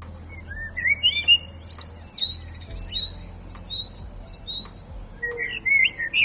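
Birds chirping: a quick run of short, high calls that rise and fall in pitch, over a steady low hum.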